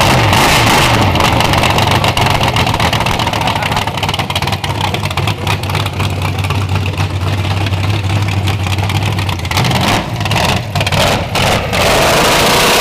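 Drag race car's engine on open exhaust, just fired up and running very loud at a steady high idle, with a few quick throttle blips near the end.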